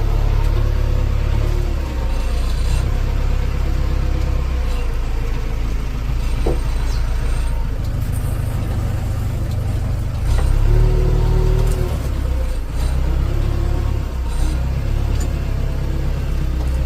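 Heavy diesel machinery running under load, its engine note stepping up and down.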